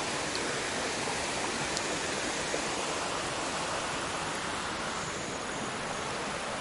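Steady rush of water from a waterfall on a jungle creek, falling water and white water without a break.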